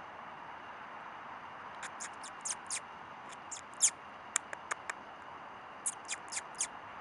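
A small animal chirping: four quick runs of three to five short, high-pitched chirps, over a steady hiss.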